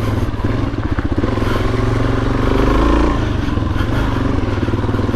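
Suzuki DRZ400S's single-cylinder four-stroke engine running while the bike is ridden, revving up about two seconds in and easing off about a second later.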